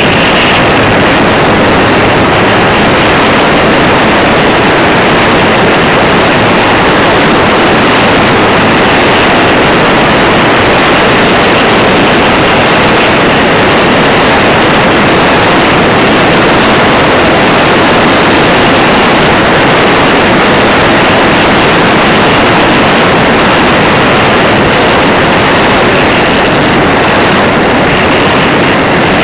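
RC model Cessna's motor and propeller at power, picked up by a micro camera on the plane: a loud, steady, unchanging rushing drone with wind noise mixed in.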